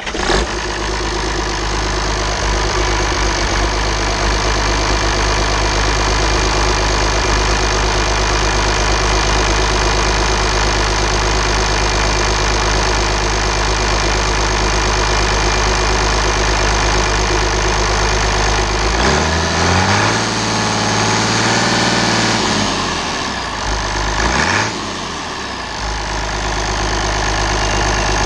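International DT414 turbocharged diesel engine idling steadily, revved up about two-thirds of the way through and held for a few seconds, dropping back, then blipped once more before settling to idle. It is sold as a good runner.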